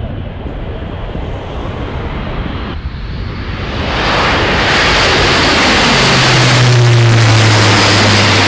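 RAF Airbus A400M Atlas's four turboprop engines as the aircraft flies over: the drone swells about four seconds in, and a low propeller hum drops slightly in pitch as it passes.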